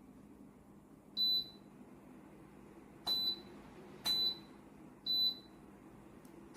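Dreo space heater's control beeping as buttons are pressed: four short high beeps, the first about a second in and the other three about a second apart, each with a faint click at the press. A faint steady hum from the running heater lies underneath.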